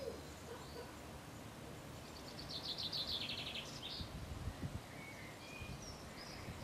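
Wild birds singing outdoors: scattered short chirps and, midway, one fast trill of quick repeated notes lasting about a second and a half, over steady outdoor background noise.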